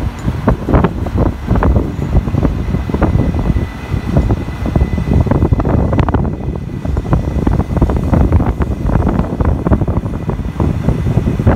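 E2 series Shinkansen train rolling slowly past through the station, a low, steady rumble, with wind buffeting the microphone in gusts.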